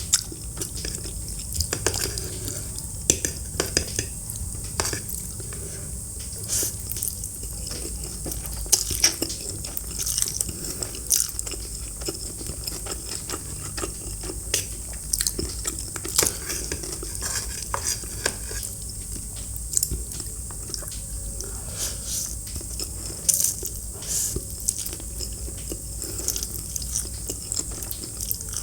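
Close-miked eating: crisp crunching bites and chewing, in short sharp crackles scattered irregularly throughout.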